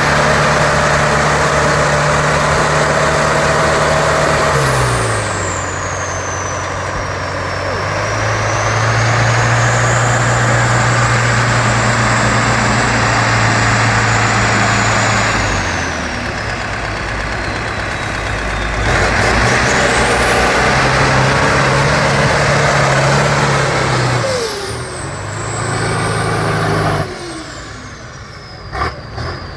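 Trial truck's diesel engine working hard, revving up and down in steps, with a high whistle that rises and falls along with it. The engine drops away near the end, followed by a few sharp knocks.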